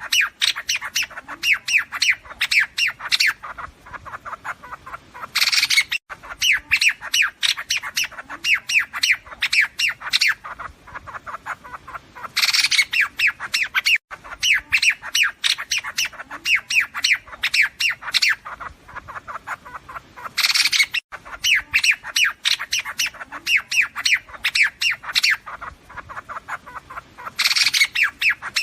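Flock calls of liếu điếu birds, a laughingthrush: harsh squawking chatter in rapid series, swelling into a louder burst about every seven to eight seconds. It is a recorded call played as a lure to draw a flock for trapping.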